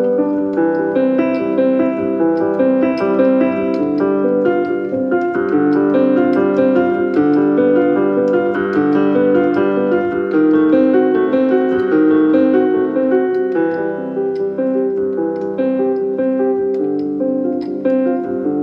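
Background piano music: a steady, flowing solo piano piece.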